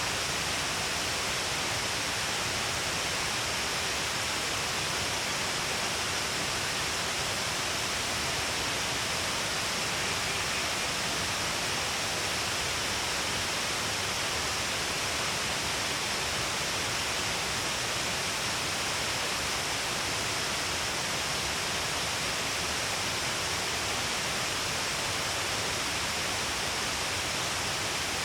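Shiraito Falls, a waterfall spread in many streams along a cliff face, pouring with a steady, unbroken rush of falling water and spray.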